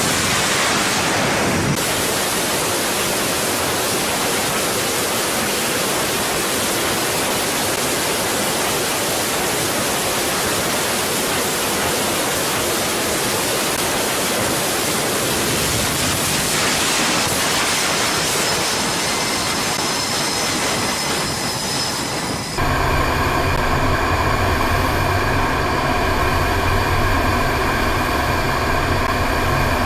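Aircraft engine noise: a steady, even rush, cut off abruptly about 22 seconds in by a steady engine drone with several held tones.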